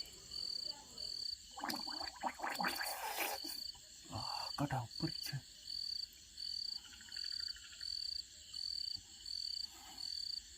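A high, evenly pulsed call from the riverside night chorus, about two pulses a second, running steadily. Faint voices and a few soft knocks come and go partway through.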